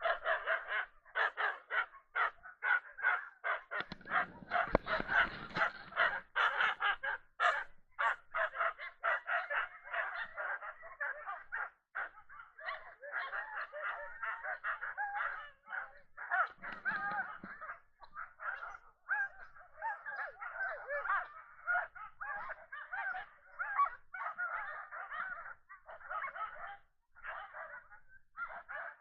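A pack of sled dogs barking and yelping together in a dense, continuous chorus of short, high calls.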